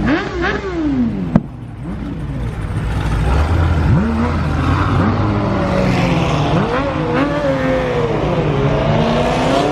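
Cars accelerating hard away from a car meet: engines revving up in rising sweeps, dropping back as they shift and rising again, with a sharp pop about a second and a half in. Later several engines run at once as more cars pass.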